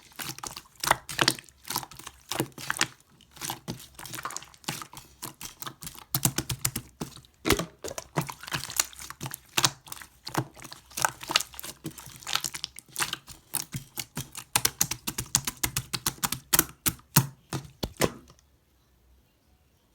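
Orange gold-pearl slime being squeezed and stretched by hand, making rapid, irregular wet clicks and pops that stop abruptly near the end.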